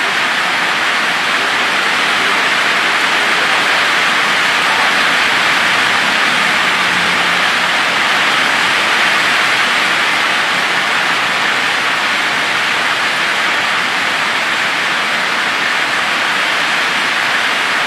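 Heavy rain falling steadily, a dense, even hiss with no separate drops standing out.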